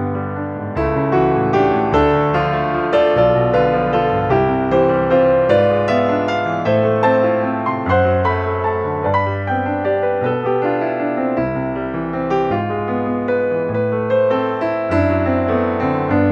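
Background piano music: sustained chords over slow, changing bass notes.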